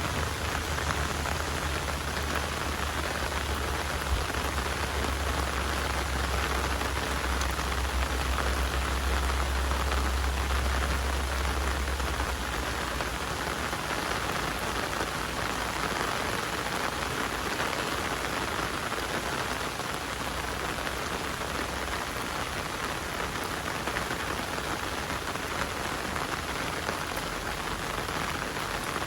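Heavy rain falling steadily as a dense, even hiss, with a low rumble underneath that fades out about twelve seconds in.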